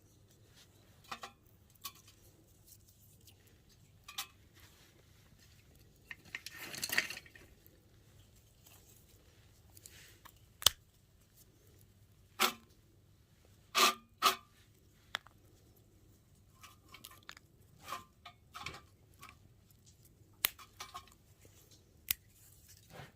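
Small wood fire of twigs burning in a nature stove, crackling with sharp irregular snaps and pops and a brief crunching rustle about seven seconds in.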